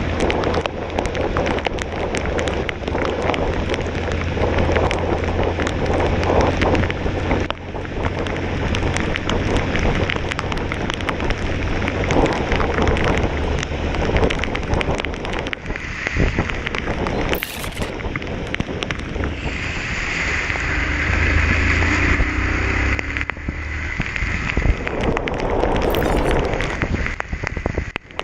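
Motorcycle riding in heavy rain: wind and rain buffet the microphone with dense crackling over the low, steady drone of the engine. A steady higher tone joins for several seconds past the middle.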